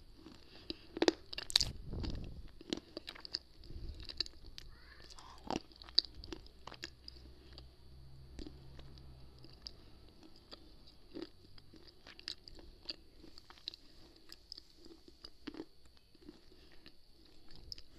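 A person chewing and crunching hard, gritty slate and baked-clay pieces right at a small microphone held to the lips. A few loud crunches come in the first three seconds, then softer, scattered crunches and clicks.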